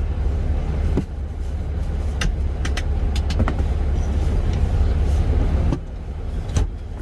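Semi truck's diesel engine running, a steady low rumble heard inside the cab, with a few scattered short clicks.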